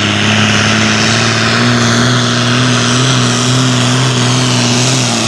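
John Deere 4455's six-cylinder turbo diesel running hard and steady under pulling load. Its pitch lifts slightly a second or two in and sags briefly near the end.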